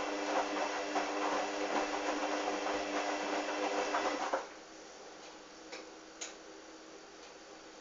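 Hoover washing machine in its wash cycle, the drum motor humming as it turns the drum of wet, sudsy towels, then stopping a little over halfway through. After that only a faint background with a couple of light clicks.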